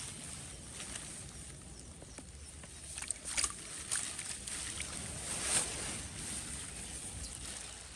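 Shallow water sloshing and splashing in a handful of short swishes, over a steady soft hiss.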